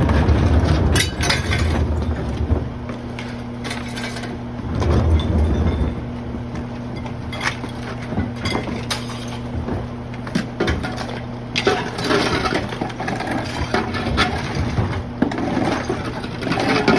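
Diesel garbage truck running, its engine swelling twice under load, while household flood debris is loaded and crushed. There are repeated sharp cracks, snaps and clinks of breaking wood, drywall and glass.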